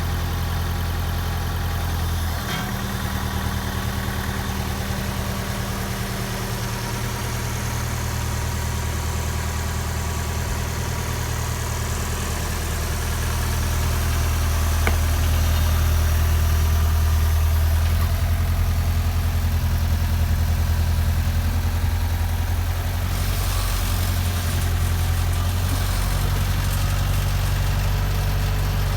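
Engine idling with a steady low drone that grows a little louder about halfway through.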